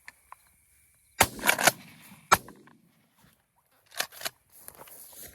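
Two shotgun blasts about a second apart, followed about four seconds in by a pair of quieter sharp knocks.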